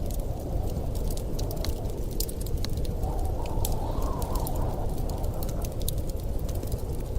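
Wood fire crackling with frequent sharp pops over a steady, deep rush of wind, which swells in a gust about three seconds in and eases off again.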